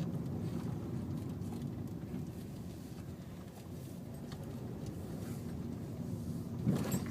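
Car engine and road noise heard from inside the cabin: a steady low rumble while driving slowly. A brief louder noise breaks in near the end.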